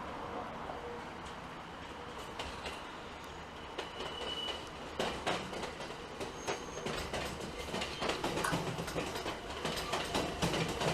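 Electric train running along the line, its wheels clicking over rail joints more and more densely and loudly from about two seconds in, with a few brief high wheel squeals.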